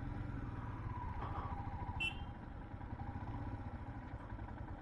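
Motorcycle engine running steadily on the move, with a brief high chirp about two seconds in.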